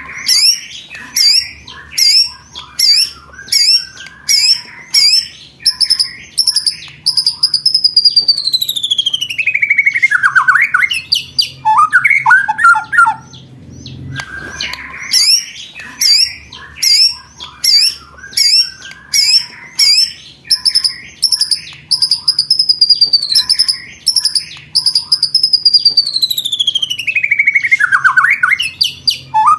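Looped songbird masteran recording of 'roll tembakan': sharp, high repeated notes about two a second, then a long whistle falling steadily in pitch and a short lower trill. The whole phrase plays twice.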